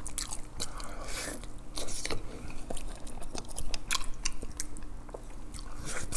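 Close-miked chewing and biting of a mouthful of rice and grilled yellow croaker, with many short sharp mouth clicks and smacks.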